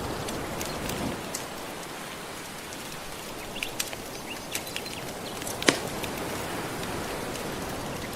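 Soft ocean waves washing in a steady hiss, with a wood fire crackling over them in scattered pops, one louder pop a little past halfway.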